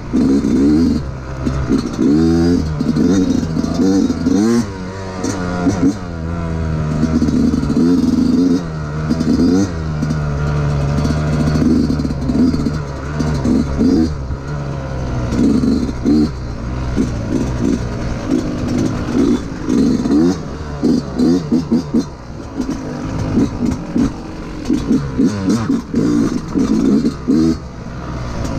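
2019 Yamaha YZ125's two-stroke single-cylinder engine under way, revving up and dropping off again and again as the throttle is opened and closed.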